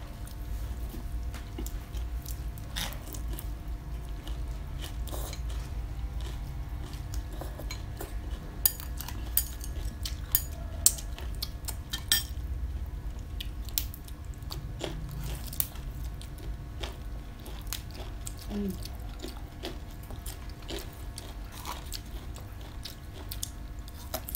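Close-up mouth sounds of people biting and chewing crunchy raw vegetables such as long beans, with many short sharp crunches scattered through, the loudest about nine to twelve seconds in, over a steady low hum.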